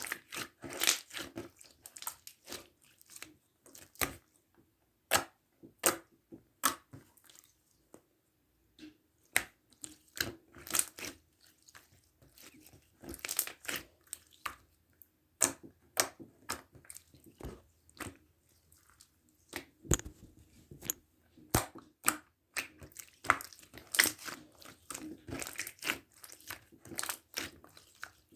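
Glitter foam-ball slime squeezed and pressed by hand, the foam beads crunching and popping in irregular clusters of sharp crackles, with a short pause about eight seconds in.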